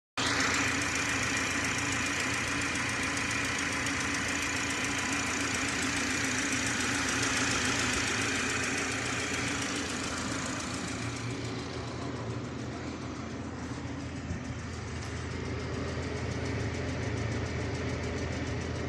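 2011 Subaru Outback's boxer engine running steadily at idle, with a hiss over the engine note that eases off about ten seconds in.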